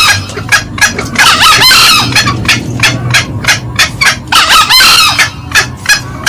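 Green junglefowl calling, the loud cackling of a lure recording: a run of short, sharp clucking notes about three a second, broken twice by a longer shrill call burst, once about a second and a half in and again near five seconds.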